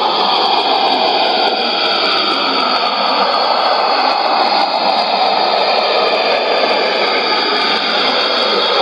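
Shortwave reception on 5905 kHz through a Sony ICF-2001D receiver: a dense, steady hiss with faint wavering tones running through it, with no voice on the frequency.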